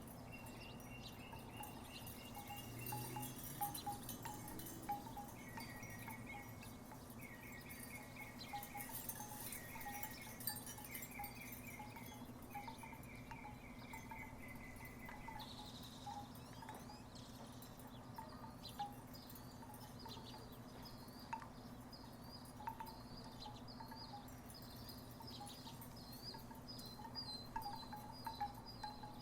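Wooden tiki wind chimes clacking irregularly with soft hollow knocks. Repeated high trills sound through the first half, then a fast run of higher chirps takes over from about halfway, over a steady low hum.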